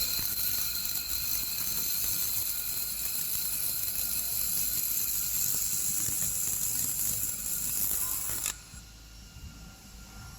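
Steady hissing machine noise from a double-wire-feed fiber laser welding machine running, with a few faint steady tones under it; it cuts off suddenly about eight and a half seconds in.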